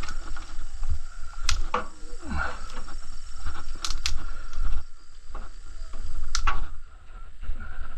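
A handful of sharp cracks and snaps from twigs and kindling at a wood fire, over a low steady rumble.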